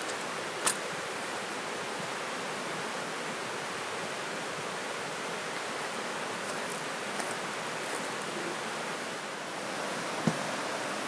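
A river flowing with a steady rushing sound, with a sharp click near the start and another near the end.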